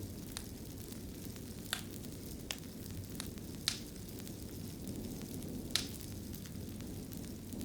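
Wood fire burning in a fireplace: a steady low rumble of flames with scattered sharp crackles and pops, three louder pops standing out.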